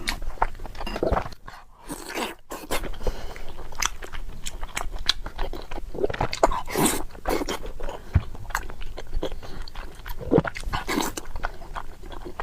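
Close-miked chewing and biting of braised pork belly with rice: irregular wet smacks and clicks of the mouth, with a short pause about two seconds in.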